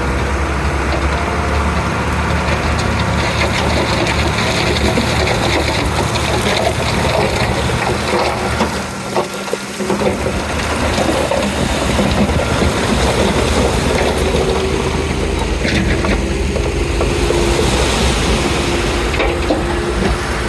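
Komatsu D31P crawler bulldozer working, its diesel engine running loud and steady under load. The sound drops briefly about nine seconds in, and a steady hum joins it in the second half.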